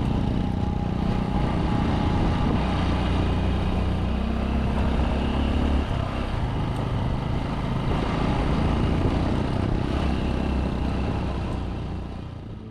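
Motorbike engine running steadily while riding, with its note shifting about halfway through.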